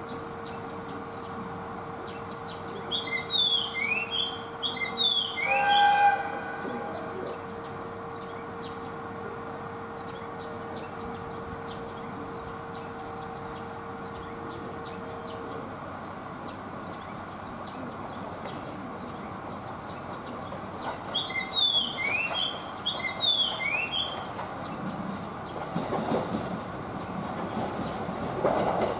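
A songbird sings a short phrase of quick chirps twice, a few seconds in and again about two-thirds of the way through. In the last few seconds a diesel railcar drawing into the station grows louder, with its engine and wheels on the rails.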